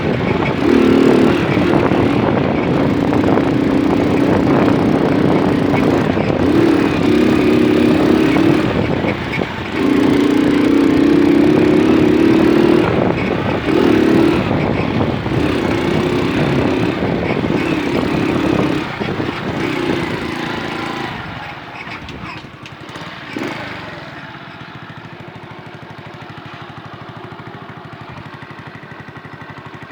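Small moped engine running while riding, its pitch and loudness rising and falling with the throttle, over wind and road noise. About three-quarters of the way through it drops to a much quieter, steady running.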